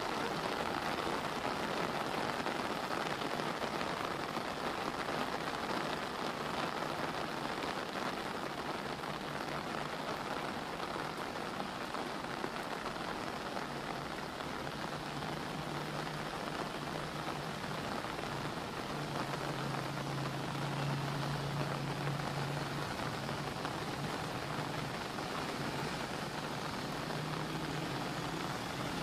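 Steady rain pouring onto a street and rooftops, a constant even hiss. A faint low hum joins a little past the middle for several seconds.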